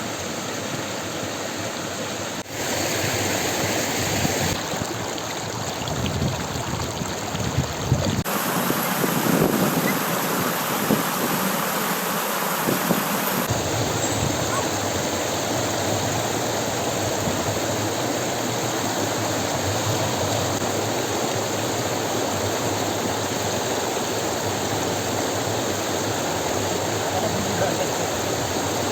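Steady rushing noise of running water, like a stream flowing, with its tone changing abruptly a few times in the first half.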